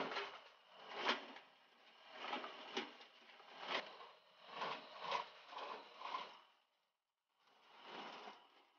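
Belted .50-calibre cartridges and their metal links clinking and rattling against a steel ammunition can as the belt is handled and fed. The rattles come in short bursts about a second apart, with a brief pause before one last rattle near the end.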